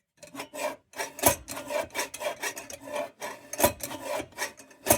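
Tin lantern being handled: irregular metal scraping and rubbing, with a few sharper knocks, as its globe and lift mechanism are worked.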